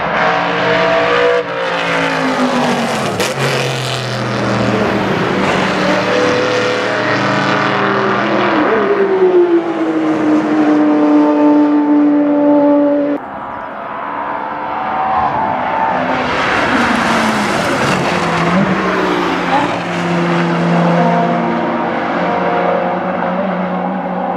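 High-performance sports car engines revving hard as cars pass on a race circuit, pitch rising through the gears and falling as each car goes by. The sound breaks off abruptly about halfway through and another passing car follows.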